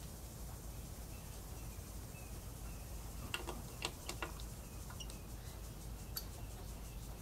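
A few sharp metallic clicks of hand tools being fitted to the bolts on an airboat belt box. Three of them come close together about three and a half to four seconds in, with fainter ticks later, over a low steady rumble.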